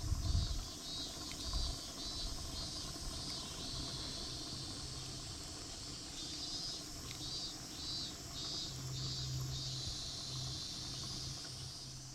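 An insect calling in short, evenly spaced high-pitched pulses, about two to three a second, in two runs with a pause between them, over a steady low hum and outdoor hiss. A low thump comes right at the start.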